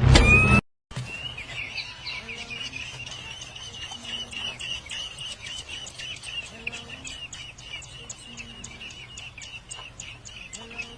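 A brief rising sweep, then a short cut to silence. After that, birds chirp continuously in quick, repeated high notes.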